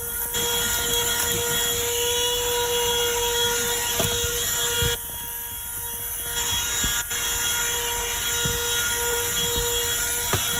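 WORX handheld cordless car vacuum running steadily with a motor whine over rushing air as it sucks at car carpet. The rushing air drops back for about a second around five seconds in, then returns.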